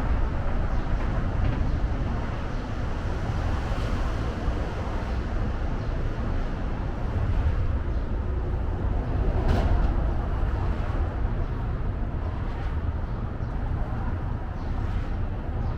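Outdoor city ambience: a steady low rumble of distant traffic, with one brief sharper sound about nine and a half seconds in.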